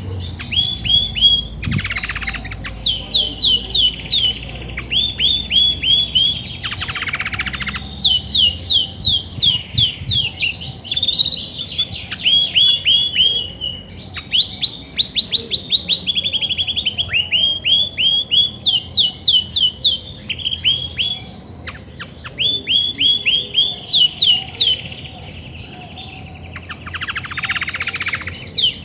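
Female Belgian canary singing: fast runs of repeated short down-sweeping chirps, broken now and then by brief buzzy rolls. This much singing in a hen is a sign that she is ready to brood.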